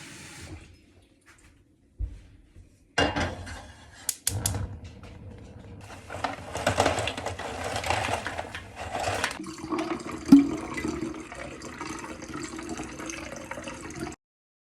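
Running water with a few sharp knocks and clatters about three to four and a half seconds in, heard as short clips cut together.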